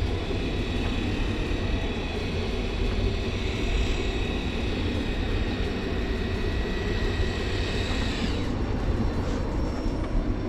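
A small motor whining at a steady high pitch over constant boat engine and wind rumble, then winding down and stopping about eight seconds in; shortly after, it is said to have almost burned up.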